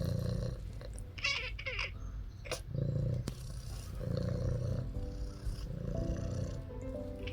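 Kitten purring, a low rumble that swells and fades in rhythm with its breathing, with a brief rustle and click about two seconds in.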